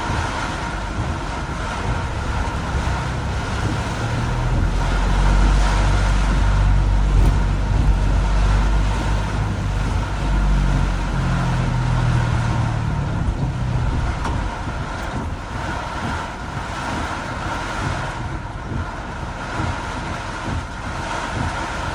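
Heavy rain and traffic on a wet road: a steady hiss of rain and spray. A low vehicle rumble swells about four seconds in and dies away about fourteen seconds in.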